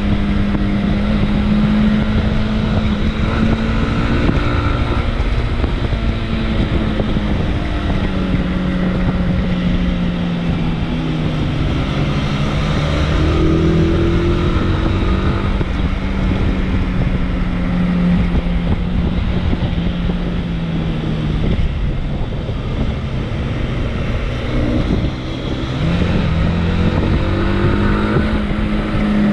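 Motorcycle engine running under way, its pitch rising and falling with the throttle, with a short drop near the end before it picks up again. Wind rushes over the microphone throughout.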